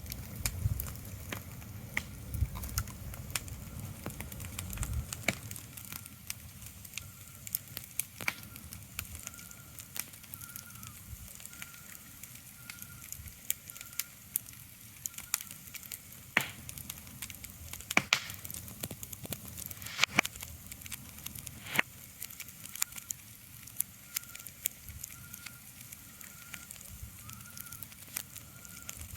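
Irregular crackling: sharp clicks and snaps at uneven intervals over a soft hiss, with a low rumble during the first few seconds. A faint high tone pulses about once a second underneath.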